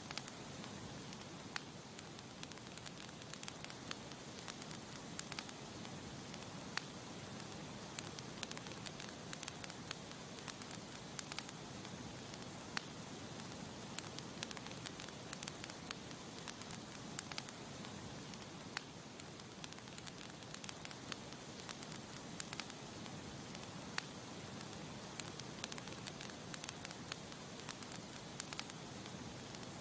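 Campfire crackling: burning wood giving frequent, irregular sharp pops and snaps over a steady hiss.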